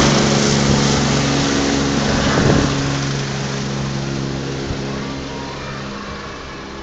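Medevac helicopter flying off after takeoff, its rotor and engine hum fading steadily as it leaves.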